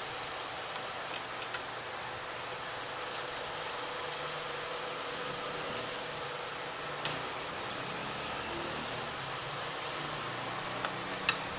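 Steady mechanical hum with a high whine over it, like a fan or air conditioner running, with a few light clicks, the sharpest near the end.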